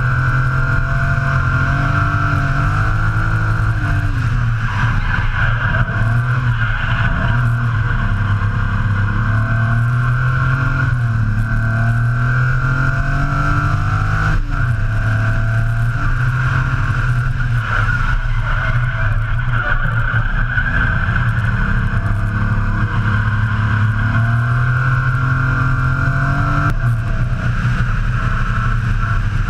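BMW S38 straight-six in a drift truck being driven hard around a tight track: the engine note rises and falls continuously with throttle and revs, with brief dips where it shifts or lifts, about halfway through and near the end.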